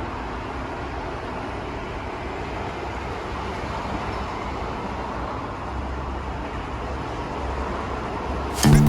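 Steady rumbling hiss of a Seoul Line 1 subway train or station. The low rumble swells slightly in the second half. Music with bass and guitar cuts in just before the end.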